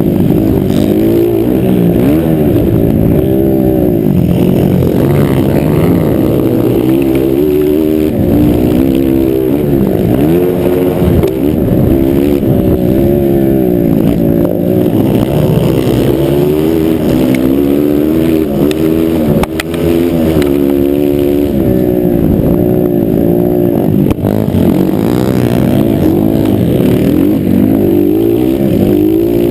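Several motocross bike engines running hard, their pitch rising and falling over and over as the riders open and close the throttle and shift.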